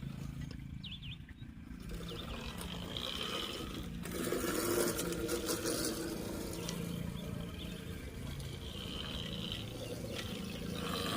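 Electric dirt bike being ridden outdoors for a wheelie: mostly low wind and tyre rumble, with a faint motor hum that comes in about four seconds in.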